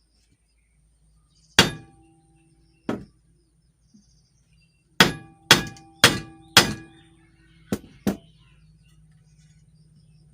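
Hammer tapping a metal shaft driven into a wax-packed ceiling-fan bearing bore, so that the wax forces the stuck bearing out. There are two spaced blows, then four quicker ones about half a second apart, then two lighter taps, several with a brief metallic ring.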